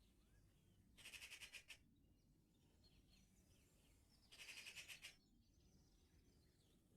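Birds calling in a garden: two harsh, rapid rattling calls, each under a second and about three seconds apart, over faint scattered birdsong.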